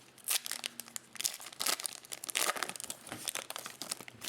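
Chrome baseball trading cards and their plastic pack wrapper being handled: crinkling and rustling with quick clicks as cards are slid and flipped.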